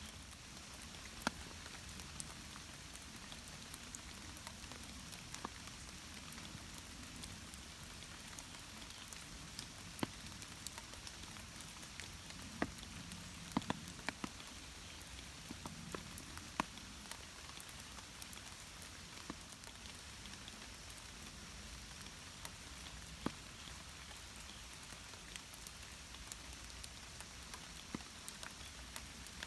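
Faint rain falling: a steady hiss with scattered sharp raindrop ticks at irregular intervals.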